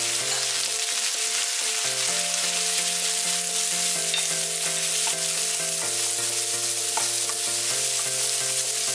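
Onion, tomato and cashew pieces sizzling steadily in hot oil in a frying pan as freshly added chilli and spice powders are stirred through with a spatula.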